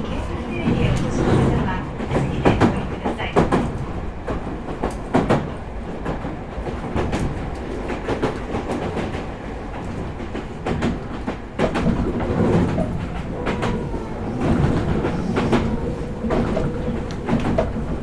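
Meitetsu 4000 series electric train running between stations, heard inside the passenger car: a steady rumble of wheels on rail with repeated clicks as the wheels cross rail joints.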